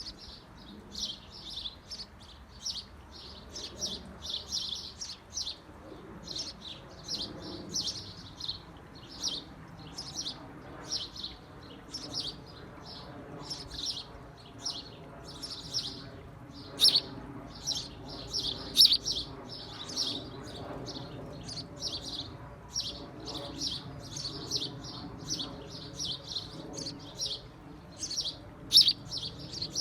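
Small birds in a birdhouse chirping in a steady run of short, high chirps, about two to three a second, with a few louder chirps near the middle and end.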